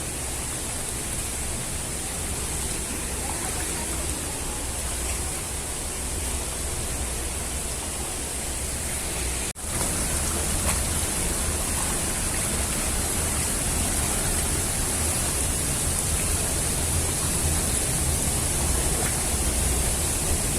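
Steady rushing of falling water from a waterfall. It cuts out for an instant about halfway through, then comes back a little louder.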